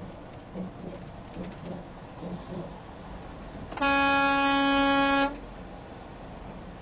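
A vehicle horn sounds in one steady blast of about a second and a half, over the constant hum of road noise.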